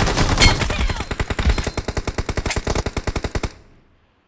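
Automatic gunfire sound effects from a shooter video game: a long, rapid burst of evenly spaced shots that cuts off suddenly about three and a half seconds in.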